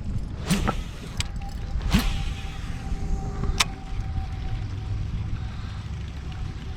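Wind buffeting the microphone as a steady low rumble, with a few sharp clicks and knocks and a faint steady high tone through most of it.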